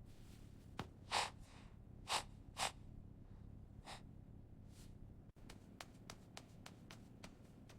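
Faint soft breathy puffs, like sniffs or breaths, five or so in the first four seconds, then a run of faint light ticks at about three or four a second.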